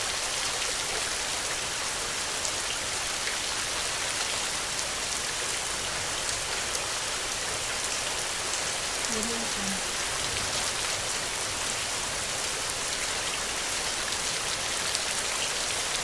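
Heavy rain falling steadily on open ground, a road and foliage, a constant hiss with many sharp drop ticks close by.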